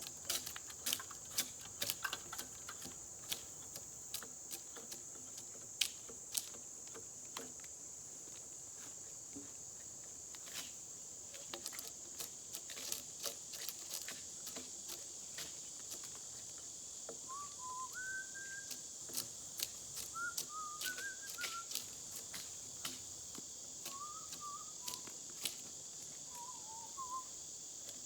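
Steady high-pitched insect chorus, with scattered sharp clicks and taps through the first half. From about two-thirds of the way in come small groups of short rising chirps.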